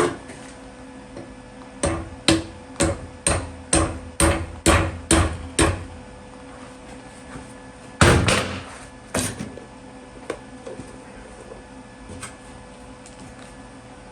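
Hammer tapping a steel exhaust baffle tube: about nine quick blows in a row, roughly two a second, then a heavier ringing blow and one more. The tube is being knocked slightly to square it up.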